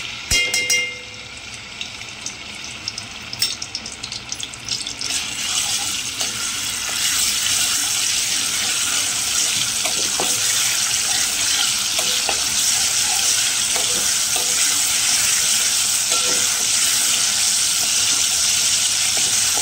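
Ginger-garlic paste sizzling in hot oil in a metal pot as a steel spoon stirs it. A spoon clinks against the pot at first, then the sizzle builds over the first several seconds and holds steady.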